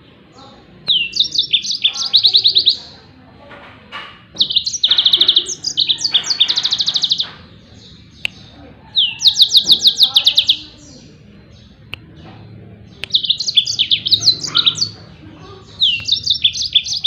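Yellow-fronted canary (Mozambique canary) singing its fast 'tembakan' shooting phrases: bursts of about a second or so of rapidly repeated high, down-sweeping notes, several times over with short pauses between.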